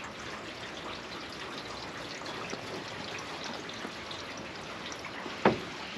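Steady rain pattering, with a single sharp knock near the end.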